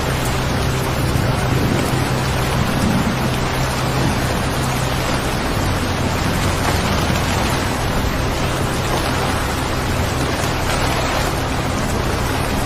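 Steady recorded rain, an even hiss, with a low steady hum underneath.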